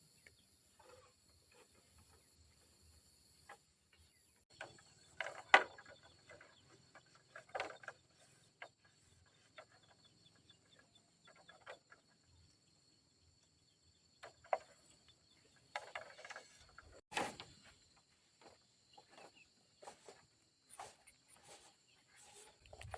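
Scattered knocks, taps and rustles, the loudest about five seconds in and again near seventeen seconds, over a faint steady high-pitched whine.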